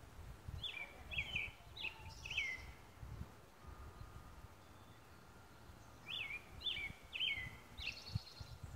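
A songbird singing two phrases, one about half a second in and one about six seconds in, each of four quick notes falling in pitch and ending in a short buzzy trill, with low rumbling on the microphone underneath.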